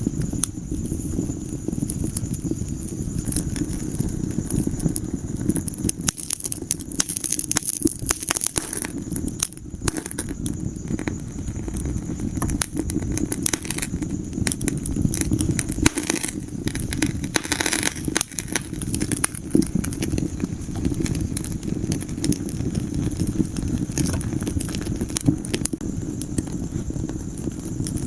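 Wood fire burning in a fireplace: frequent sharp crackles and pops of burning logs over a steady low rumble of the flames.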